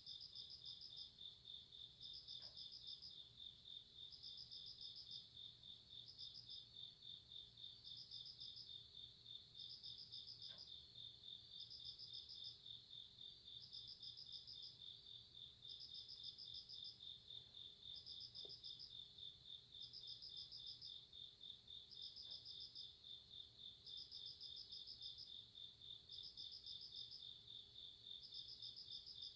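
Faint chorus of night-calling crickets and other grass insects. One keeps up a steady pulsing trill, while another chirps in short bursts about every two seconds.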